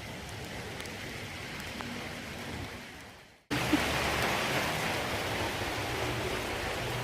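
Steady heavy rain falling. It fades out a little over three seconds in, then cuts back in louder with a low steady hum underneath.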